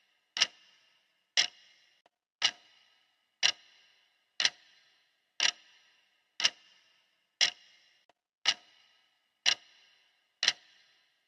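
Clock ticking steadily at one tick per second, eleven even ticks, each a sharp click with a short fading ring.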